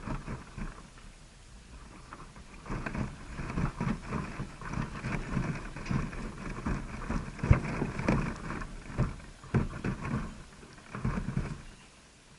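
Irregular close rustling, scratching and knocking, thickening about three seconds in with one sharper knock near the middle, then easing off near the end.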